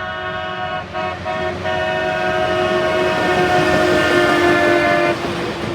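Air horn of a CSX work train sounding a long chord, broken by two brief gaps about a second in, growing louder, then cutting off suddenly about five seconds in.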